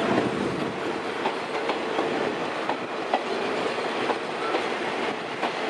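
Passenger coaches of an arriving train rolling slowly past, steel wheels clacking irregularly over rail joints over a steady rumble.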